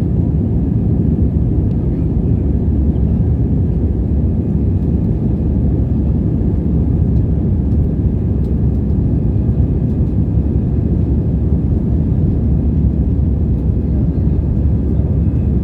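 Steady low rumble of cabin noise inside a Vietjet Airbus A320, the engines and airflow making an even, unbroken noise.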